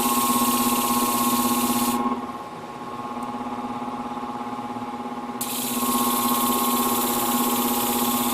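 Sharpening machine motor running with a steady hum while the tip of a ceramic shear blade is ground against a diamond abrasive: a hissing grind for about two seconds, a pause with only the motor, then a second grinding pass from about halfway through.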